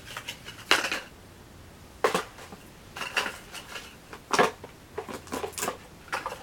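Jars and packaged food items clinking and knocking together as they are handled, about half a dozen separate sharp knocks.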